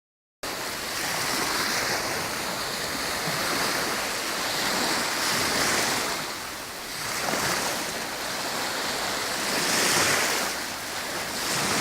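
Sea waves washing onto the shore in a steady murmur, swelling about every four seconds as each wave comes in.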